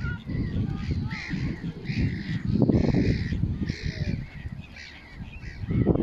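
Several harsh bird calls in quick succession, thinning out toward the end, over a low rumble of wind on the microphone.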